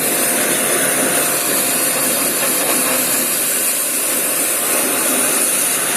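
Steady hissing spray of a high-pressure water jet, as used to wash an air conditioner's coils during a service cleaning, running without a break.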